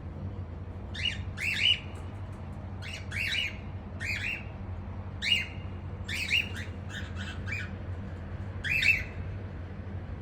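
Kittens mewing in short, high-pitched calls, two or three at a time, with clusters coming roughly once a second, over a steady low hum.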